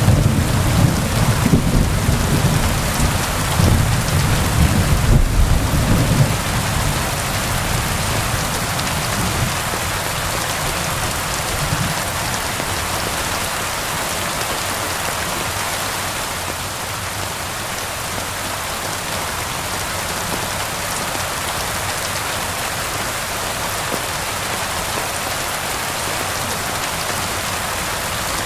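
Steady rain falling, an even hiss throughout, with a low rolling rumble of thunder during the first six seconds or so that then dies away.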